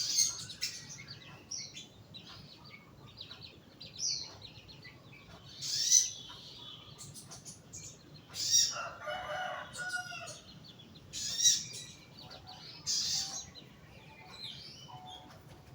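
A young sogon bird calling: loud, sharp high calls every two seconds or so, with softer chirps between them and a longer, harsher call about nine seconds in.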